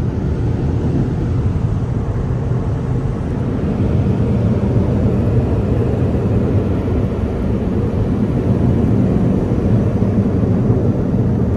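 Car wash air dryers (Tech 21 blowers) blowing a loud, steady rush of air over the car, heard from inside the car, growing a little louder about a third of the way in.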